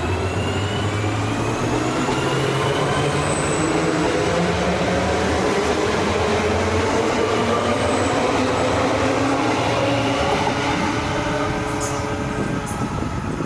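SL X60 electric commuter train accelerating, its traction motors whining in several tones that rise steadily in pitch over a low hum. A few sharp clicks come near the end as the sound begins to fade.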